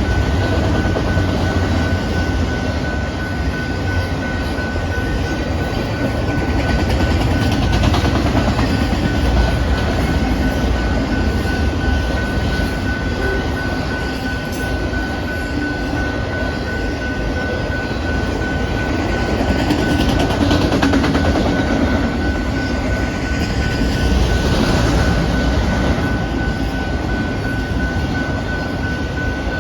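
Canadian Pacific manifest freight train rolling past at speed: a steady loud rumble of wheels on rail, with a steady high tone held throughout.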